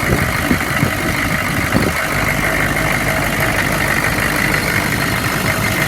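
2002 Chevrolet 3500's 6.5-litre V8 diesel idling steadily, the speaker calling it idling great. A few light clicks in the first two seconds come as the jump-box clamps are taken off.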